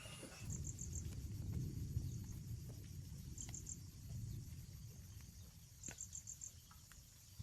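Cricket chirping in short trills of four or five pulses, three times, over a low rumble.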